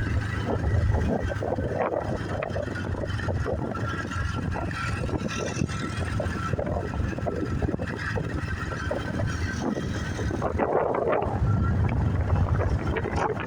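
Motorbike running along a road, its engine and tyre noise mixed with wind buffeting the microphone on the moving bike. The rumble swells a little about ten seconds in.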